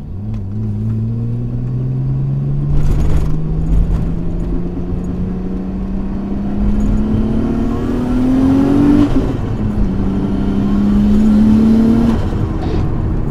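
A 400 hp Nissan Stagea's engine heard from inside the cabin, pulling with a slowly rising pitch through one gear. About nine seconds in it changes gear, pulls again for a few seconds in the next gear, then eases off near the end.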